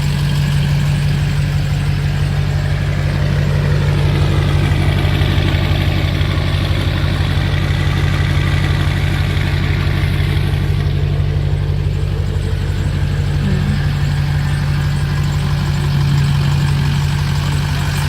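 Car engine idling steadily on newly fitted fuel injectors, still cold from a cold start.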